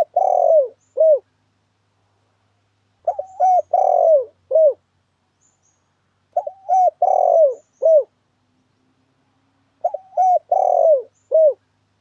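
Spotted dove (tekukur) cooing, a phrase of several short coos, one longer drawn-out coo and a short final note. The phrase repeats about every three and a half seconds, four times, with silence between.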